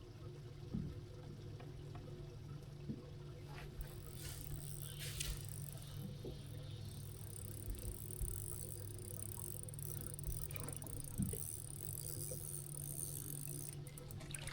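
Steady low hum of a small electric motor on a bass boat, with a few light knocks and clatters.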